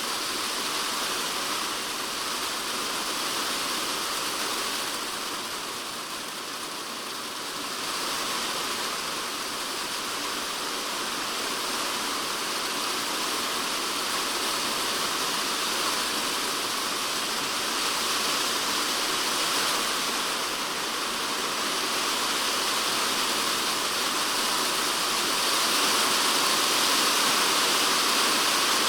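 Typhoon rain falling on a polycarbonate shed roof, heard from inside the shed: a dense, steady hiss of drops that eases a little about five seconds in, then builds again and is heaviest near the end.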